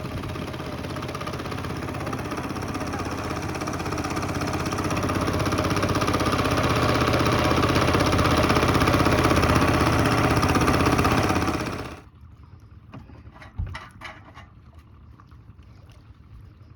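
A motorboat engine running steadily and growing louder, then cutting off suddenly about twelve seconds in. A single low thump follows shortly after.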